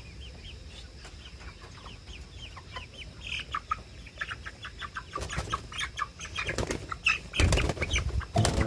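Broiler chickens chirping and clucking over and over, with loud bursts of wing flapping from about five seconds in.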